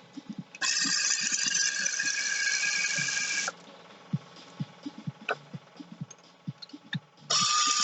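A handheld power tool running in two bursts, about three seconds from just after the start and again starting near the end, each starting and stopping sharply, as bolts are undone on a Yamaha XLT jet ski engine. Between the bursts, scattered clinks and knocks of tools and parts being handled.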